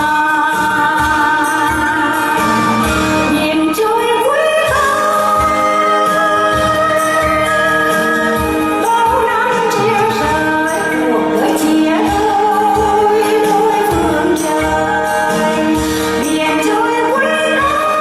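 A woman singing a song over amplified instrumental backing in a large hall.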